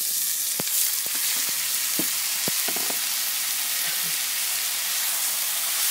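Frozen chopped tomatoes landing in hot ghee in a kadhai and sizzling hard and steadily as their water hits the fat. A few light knocks come in the first three seconds.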